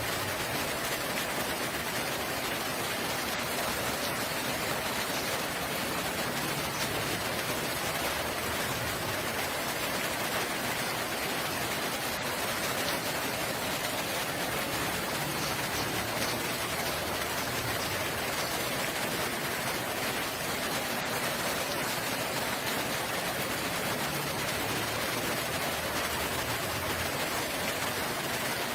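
Steady rain falling, an even hiss of raindrops throughout.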